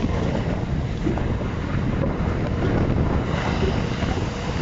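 Steady running noise of a train heard from inside a passenger car: a continuous low rumble of wheels on rails, with a faint hiss over it.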